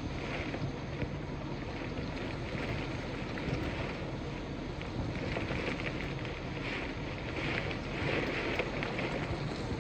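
Severe thunderstorm wind and rain: a steady rushing noise that gusts stronger from about halfway through, with wind buffeting the microphone.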